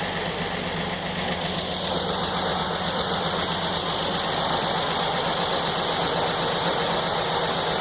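Sawmill engine running steadily, driving a 49-inch circular saw blade spinning free with no log in the cut. A higher whine grows stronger from about two seconds in.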